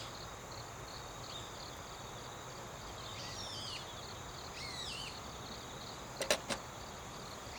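Outdoor ambience of insects chirping in a steady, even pulse, with a few short falling chirps over it and two sharp clicks in quick succession a little after six seconds.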